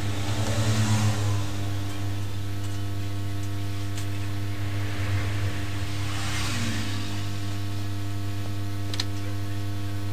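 Steady electrical hum with a whir from bench equipment, with a couple of faint ticks.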